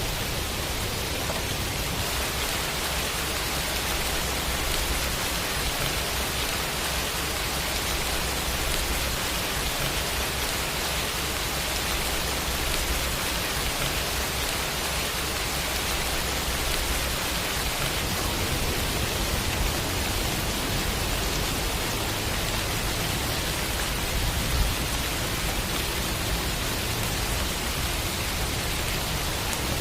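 Rain sound effect: a steady, even hiss of rainfall.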